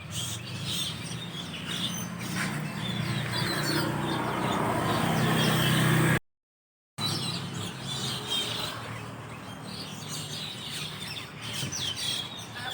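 A roosting flock of Asian glossy starlings (perling) chattering in many short, high chirps over a low steady hum that grows louder through the first half. The sound cuts out completely for under a second about six seconds in, then the chirping carries on.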